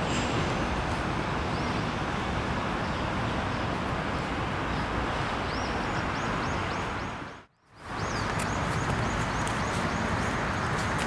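Steady outdoor background noise with a bird chirping repeatedly in short high notes through the second half. The sound cuts out briefly about seven and a half seconds in.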